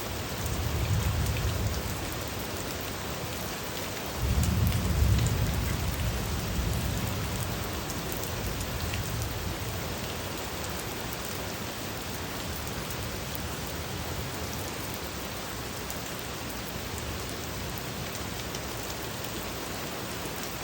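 Steady rain falling, with thunder rolling in: a low rumble about a second in, then a louder one that starts suddenly around four seconds in and fades away over several seconds.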